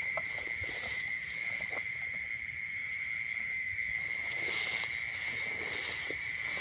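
An insect trilling steadily on one high pitch, with louder rustling swishes about two thirds of the way through and a few light clicks.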